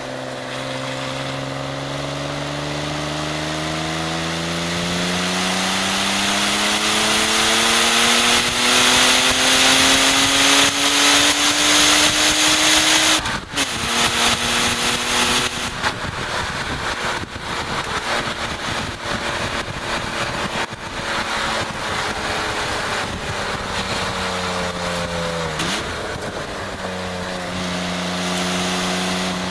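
BMW E36 325is 2.5-litre straight-six pulling hard on track: the engine note climbs steadily for about thirteen seconds, drops sharply, then runs lower and uneven before a quick dip and rise near the end. Heavy wind rush over the outside-mounted microphone rises and falls with the speed.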